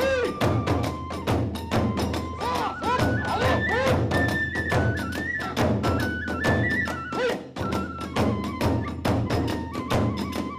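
Kagura hayashi ensemble: a bamboo flute plays a held melody that steps up and down, over fast, even drum beats and clashing hand cymbals.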